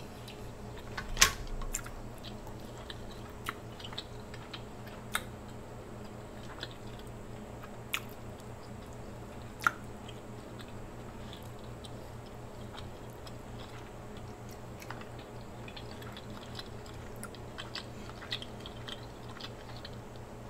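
Close-miked chewing of king crab meat, with a few sharp clicks and smacks scattered through it, the loudest about a second in and near the middle.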